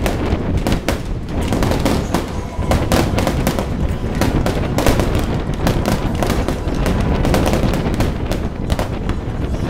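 Aerial fireworks barrage: shells bursting in quick succession, several bangs a second overlapping into a continuous rattle of reports.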